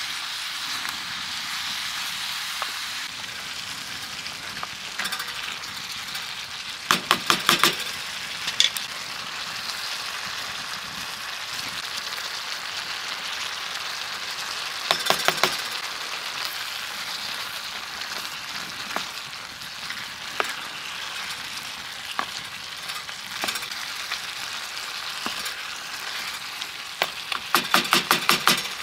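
Food sizzling steadily in a hot pan, with three short runs of quick metallic clicks from a utensil against the pan as it is stirred.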